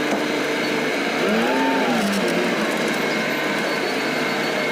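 A vehicle engine running steadily, with one rise and fall in pitch about a second in.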